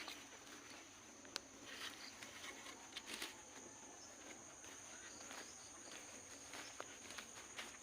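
Faint, steady high-pitched insect drone from a chorus of crickets or similar insects, with a few scattered light clicks and rustles.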